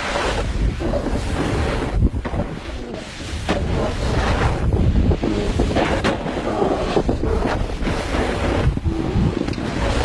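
Wind buffeting the microphone: a loud, uneven rushing rumble that swells and dips in gusts.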